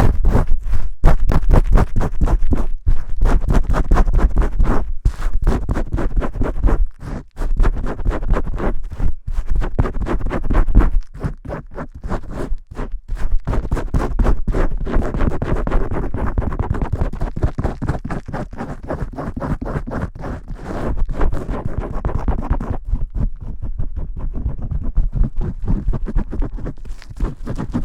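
Vigorous shampooing close to the microphone: fingers scrubbing and scratching through lathered hair in rapid, rough strokes, with a few short pauses.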